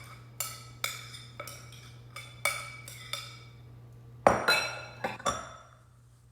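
A utensil knocking against a mixing bowl while scooping out a sticky mixture: ringing clinks about every half second, then a louder cluster of knocks near the end.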